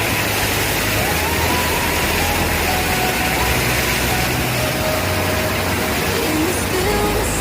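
Steady rush of a mountain stream and waterfall, an even, loud hiss of falling water.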